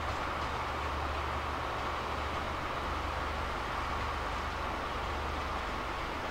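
E001 series Train Suite Shiki-shima pulling away from the station, a steady low running hum with a mid-pitched drone over it.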